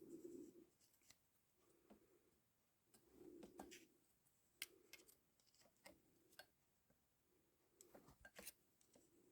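Near silence with a few faint, scattered clicks and light ticks of the clutch friction plates and measuring tool being handled while each plate's thickness is checked.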